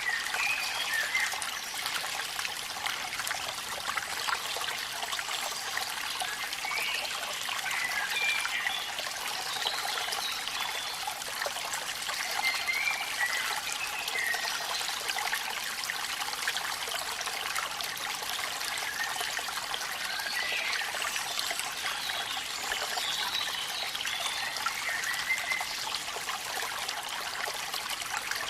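Steady hiss of falling water from a waterfall in rain. Short, faint, high chirps come through now and then.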